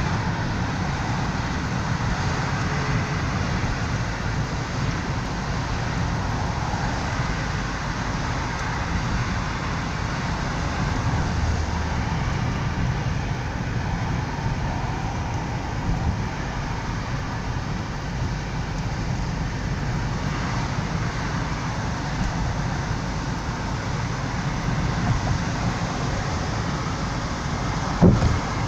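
Steady road noise of a moving car heard from inside the cabin: a low engine and tyre rumble, with a single sharp knock near the end.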